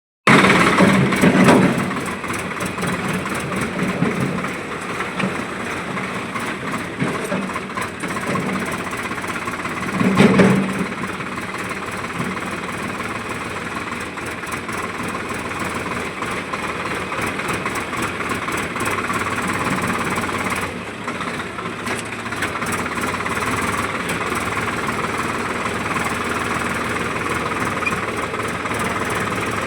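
Diesel engine of a backhoe loader or tractor running steadily, swelling louder briefly about a second in and again around ten seconds.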